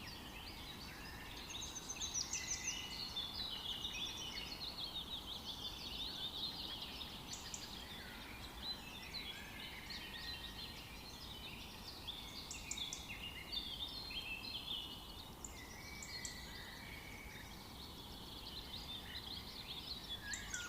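Birdsong chorus: several small birds chirping and trilling at once in quick, overlapping high calls, over a steady low background hiss.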